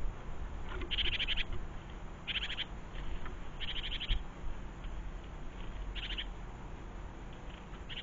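A small songbird calling: four short rattling bursts of rapid notes, each about half a second long, spread over some six seconds, over a low steady rumble.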